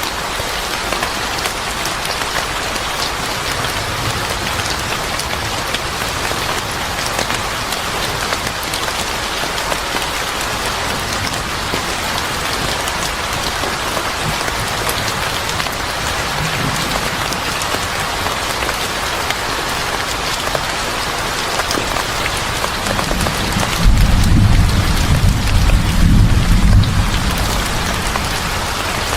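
Steady heavy rain falling on a surface, an even hiss, with a low rumble of thunder rising about three-quarters of the way through and fading near the end.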